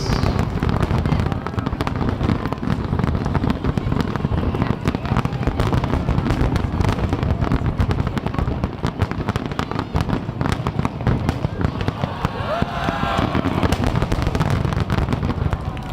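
Fireworks going off in a dense crackling barrage, many sharp pops close together over a continuous low booming rumble.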